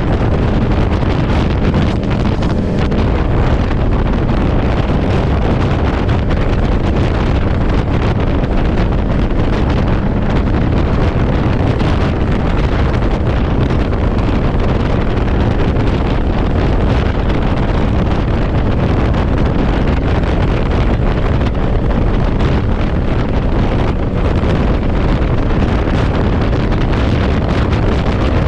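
Heavy wind buffeting the microphone on a moving motorcycle, a steady loud rumble with the bike's engine and road noise underneath.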